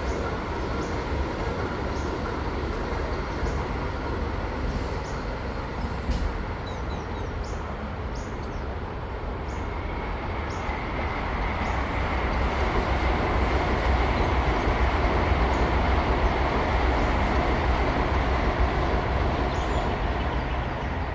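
High-speed train passing: a steady rushing noise with a low rumble beneath. It swells about halfway through and eases off near the end.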